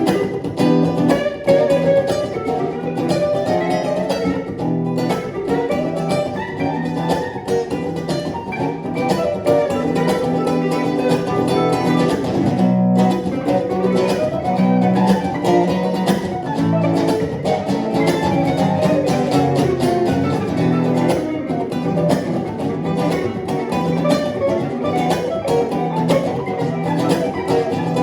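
Acoustic and electric guitars improvising together, an instrumental passage of quick plucked notes over a steady strummed accompaniment.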